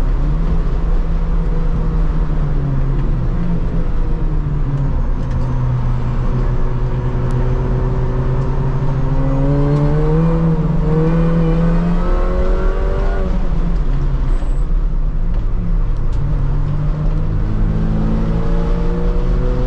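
R53 Mini Cooper S's supercharged 1.6-litre four-cylinder engine pulling hard at full throttle, heard from inside the cabin over road and wind noise. The revs climb steadily from about halfway through, fall back, then start climbing again near the end.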